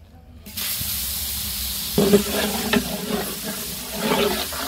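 Garlic paste sizzling in hot refined oil in a large aluminium pot. The hiss starts suddenly about half a second in, as the paste hits the oil; from about two seconds in, a metal ladle scrapes and stirs through it.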